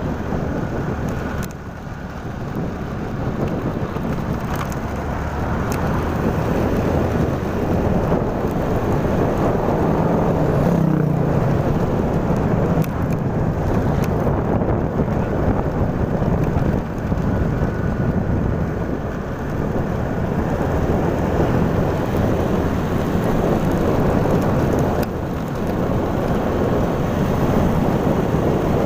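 Steady rumble and hiss of a moving vehicle: engine, road and wind noise while travelling.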